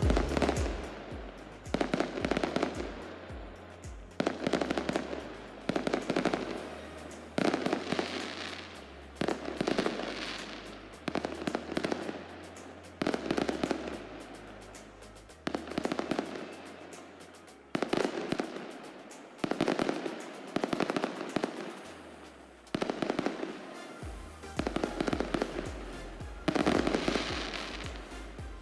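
A string of sharp crackling bangs, one about every two seconds, each fading out over a second or so, over background music with a bass line.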